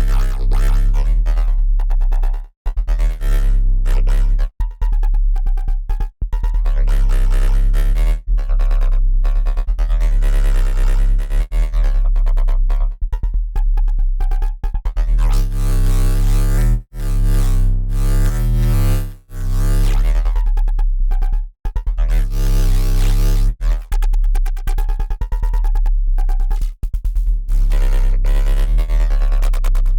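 Dirty FM synth bass riff from Bitwig's Polygrid, playing at 140 BPM in a dubstep style. A heavy sub-bass runs under an upper tone whose colour keeps shifting, broken by a few short dropouts between phrases.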